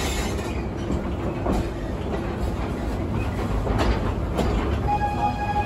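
Theme park train rolling along its track: a steady rumble of the cars with a few wheel clicks over the rail joints. A steady high tone comes in near the end.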